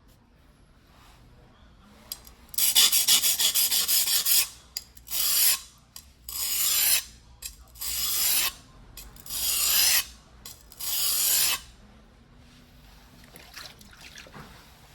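Hand sharpening of a white #2 steel yanagiba on a wet whetstone: a quick run of short scraping strokes, then five longer single strokes of about a second each, roughly every second and a half.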